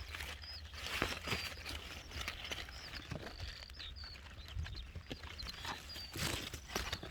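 Small birds chirping with short, high, curling whistle notes repeated every second or so, over irregular rustling and crackling, like leaves and plants being handled.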